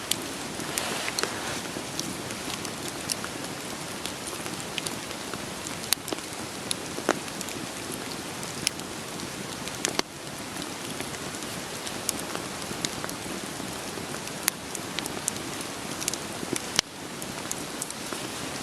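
Steady rain mixed with a wood campfire crackling, sharp pops and snaps scattered irregularly over the hiss of the rain. The level dips suddenly for a moment twice.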